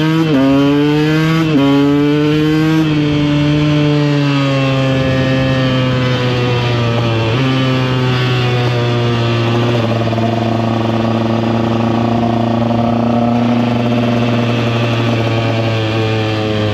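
KTM EXC 125 two-stroke single-cylinder enduro engine pulling hard through the gears, its pitch climbing and dropping at three upshifts in the first few seconds. It then settles into steady cruising revs.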